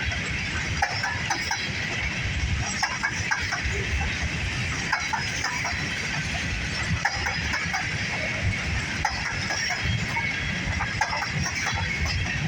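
Freight train of grain cars rolling past: a steady rumble of wheels on rail, with many short irregular squeals and metallic clinks from the cars.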